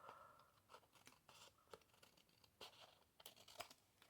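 Scissors cutting excess paper off the edge of a card: faint, irregular soft snips and paper rustles.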